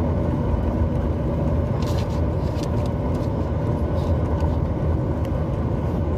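Steady low rumble of cabin noise inside a Boeing 737 MAX 8, with a few faint light rattles.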